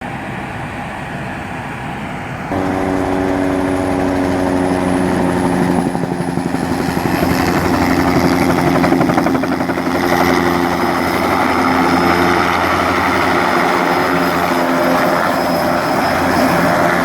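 Herbicide-spraying helicopter running steadily, a fast rotor chop over a steady engine drone with a thin high whine. It jumps louder suddenly about two and a half seconds in.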